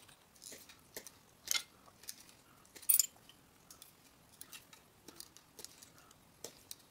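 Scattered light metallic clicks and taps as a copper disc and small hand tools are handled, with two sharper clicks about a second and a half and three seconds in.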